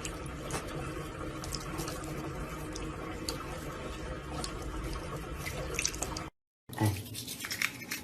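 Water running steadily from a tap, with small scattered clicks and drips. It cuts off about six seconds in, and after a moment of silence a single thump and a few light clicks follow.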